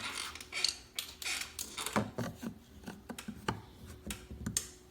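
Flat screwdriver prying and twisting at a plastic trim piece on a Chevy Impala door panel, making irregular clicks, taps and scrapes as the plastic retaining fingers are worked loose.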